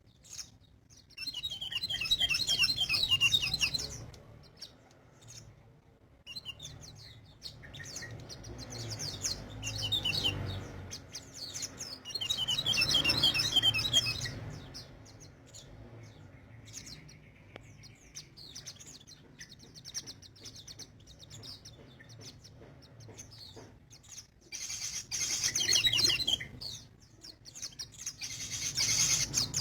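Sogon bird singing vigorously in about five bouts of rapid, high, trilling notes, each lasting one to three seconds with short gaps between, over a faint steady low hum.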